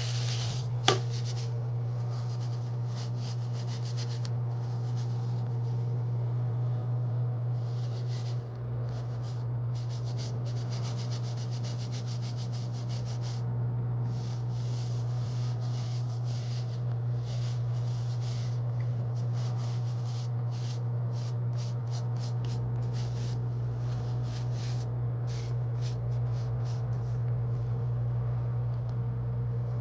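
Machine running with a steady low hum, with irregular rubbing, scraping noises that come and go over it and a single sharp click about a second in.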